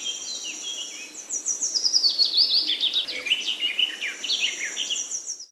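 Several birds chirping and singing at once, quick overlapping chirps and trills; the sound cuts off suddenly at the end.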